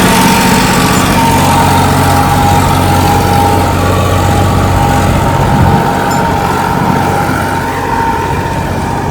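Sonalika 47 RX tractor's diesel engine running steadily while hauling a loaded trolley, getting a little quieter near the end.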